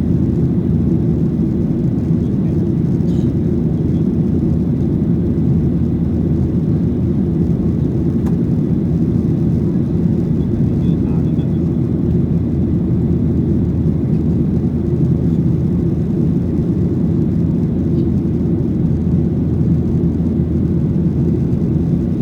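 Steady roar of a Boeing 737-800's CFM56-7B turbofan engines and airflow heard inside the passenger cabin, an even low-pitched rumble that holds at one level throughout.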